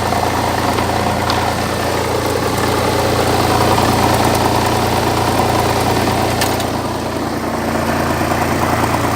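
Land Rover Freelander 2.5-litre KV6 V6 petrol engine idling steadily, with a brief dip in level about seven seconds in.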